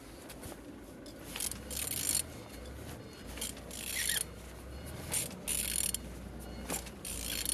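Renault F9Q diesel engine being turned over by hand with a ratchet wrench: several short rasping ratchet bursts a second or more apart, over a low hum. The engine turns freely, not seized.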